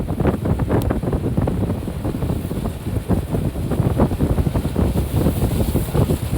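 Off-road vehicle driving over a rough dirt trail: a steady low rumble with wind buffeting and frequent short knocks and rattles.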